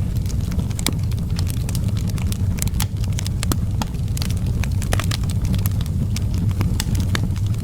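Outdoor wood fire crackling, with sharp pops coming irregularly several times a second over a steady low rumble.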